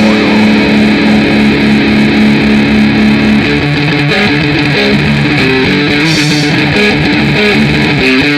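Loud distorted electric guitar from a live grindnoise band: one chord held ringing for about three seconds, then a riff of changing notes.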